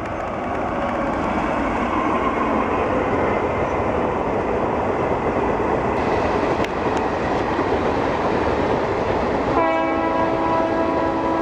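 Indian Railways express train running through at high speed, a loud steady rush of wheels and air that builds over the first couple of seconds. About ten seconds in, the locomotive horn sounds a long blast that carries on to the end.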